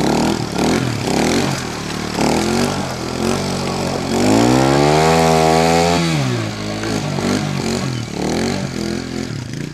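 Dirt bike engine being floored through mud, revving unevenly. It climbs sharply in pitch about four seconds in, holds high, and drops back near six seconds.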